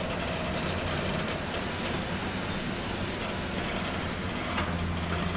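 Steady low mechanical drone with a hum, under an even hiss, with a few faint clicks and creaks.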